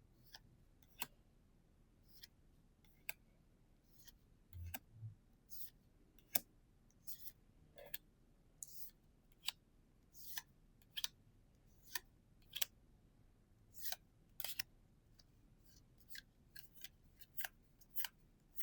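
Pokémon trading cards being handled and flipped through one by one, each card giving a short crisp snap or swish, irregularly about once a second.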